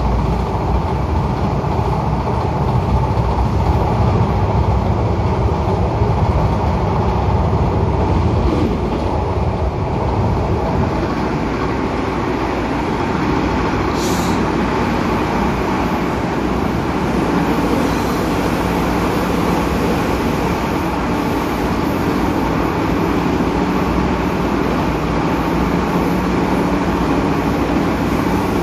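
Steady running noise inside an MTR A-Train (Adtranz-CAF electric multiple unit) car travelling at speed: loud rumble of wheels on the track with a faint electric hum, in a car whose own traction motor has failed. The rumble eases about ten seconds in, and there is one brief high squeal near the middle.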